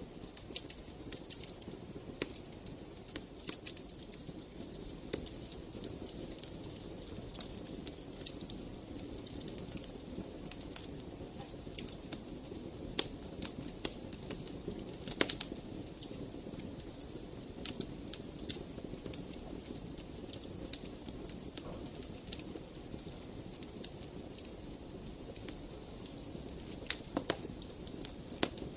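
Fire in a fireplace crackling, with sharp irregular pops over a steady low rush of flame; the loudest pop comes about halfway through.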